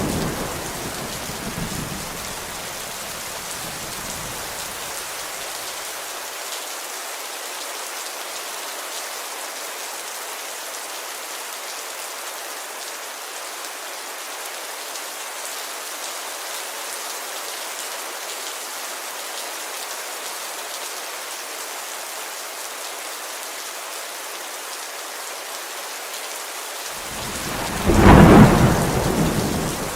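Steady rain falling on a window. A thunder rumble dies away over the first few seconds, and a loud clap of thunder comes a couple of seconds before the end.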